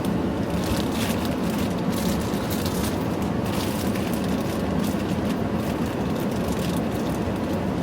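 Steady low rumble of a car cabin, with soft rustling now and then, in keeping with handling the wig.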